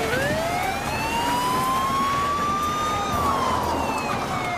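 Police siren wailing: its pitch rises slowly for about three seconds, then starts to fall.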